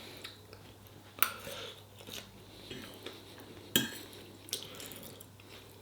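Cutlery clinking against a dish while eating: a few short, sharp clinks spaced irregularly, the clearest about a second in and near four seconds, with fainter taps between.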